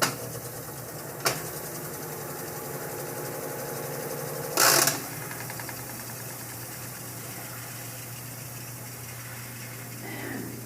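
Brastemp/Consul washing machine in its spin cycle: a steady motor hum with a sharp click about a second in and a loud, harsh burst of noise lasting under half a second about four and a half seconds in. This is the abnormal spin-cycle noise being demonstrated.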